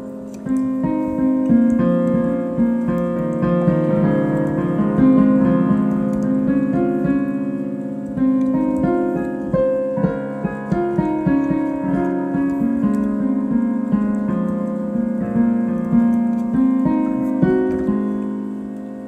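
Piano playing an improvised piece, with many notes struck in succession and left to ring into one another.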